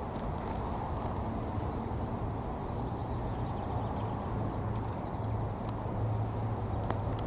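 A thin, high bird call held for about two seconds in the middle, over a steady low rumble with a hum.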